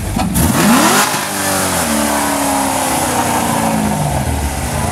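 A car engine revs up sharply within about a second, then its pitch falls away steadily over the next few seconds.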